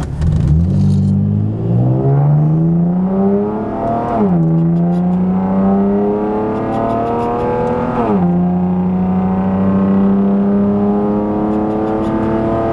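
A car engine accelerating hard through the gears: its pitch climbs steadily, drops sharply at upshifts about four and eight seconds in, then climbs more slowly in the next gear.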